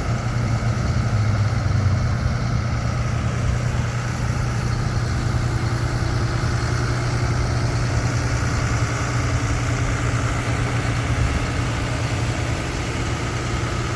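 A 6.7 L Cummins turbo diesel in a Ford F-750 truck idling steadily, an even low drone with no revving.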